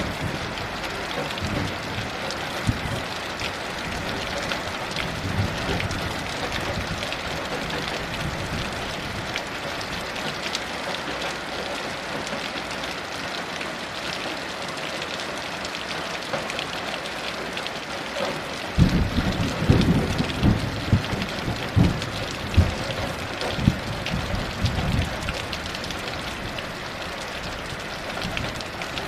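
Heavy rain falling steadily, with low rumbles of distant thunder rolling in about two-thirds of the way through.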